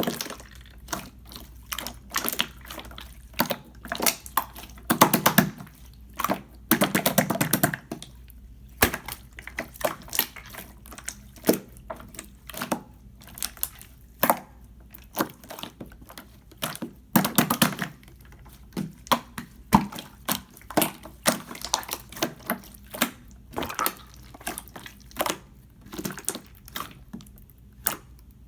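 Clear slime being squeezed, stretched and poked by hand, giving irregular wet clicks and bubble pops, with a few longer crackling squishes.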